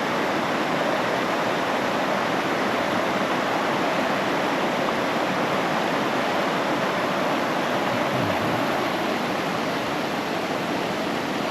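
Steady rushing of flowing water, an even unbroken roar.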